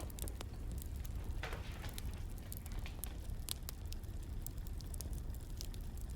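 Wood fire crackling: irregular sharp pops and snaps over a steady low rumble, with a brief hiss about a second and a half in.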